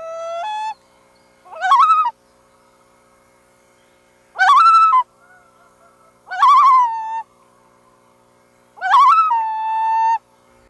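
Loon calling repeatedly: four short wavering calls about two seconds apart, some ending in a held note.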